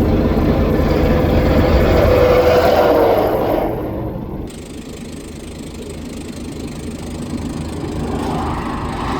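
Heavy truck engine passing close by, loud for about three and a half seconds, then dropping away into quieter road noise, with another vehicle building up near the end.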